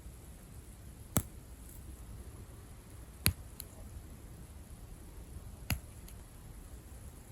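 Sebum plugs pulled out of scalp pores, each coming out with a short sharp pop: three pops about two seconds apart, each with a fainter click just after, over a steady hiss.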